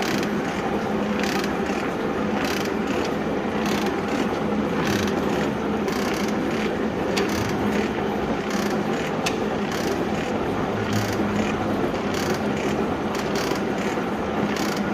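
Metal shaping machine with a 500 mm stroke running: a steady motor and gear hum with a clack repeating about once a second as the ram strokes back and forth.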